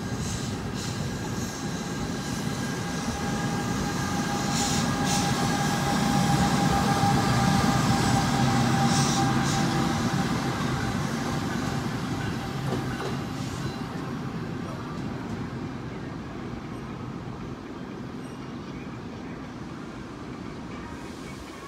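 A train passing: its rumble grows to a peak about midway and then fades away, with a steady whine above it and a few clicks of the wheels.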